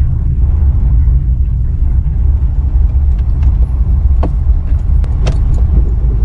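A 1967 Mercedes-Benz W108 250S driving, heard as a steady low rumble of its six-cylinder engine and the road, with a few faint clicks about four and five seconds in.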